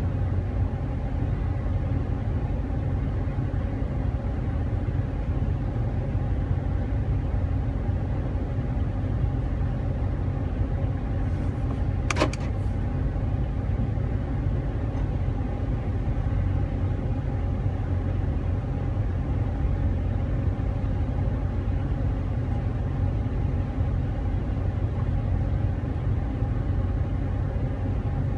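Car engine idling, heard from inside the cabin: a steady low hum. A single sharp click comes about twelve seconds in.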